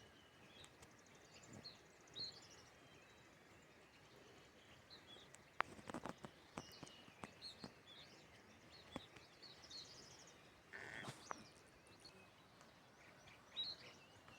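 Faint birds chirping in short high calls scattered throughout, with a few sharp clicks about six seconds in and a brief noisy burst about eleven seconds in.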